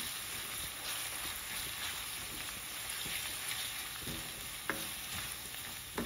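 Ground onion and ginger-garlic paste sizzling in hot oil in a kadhai, stirred and scraped around the pan with a spatula. Near the end the spatula knocks sharply on the pan twice, about a second apart.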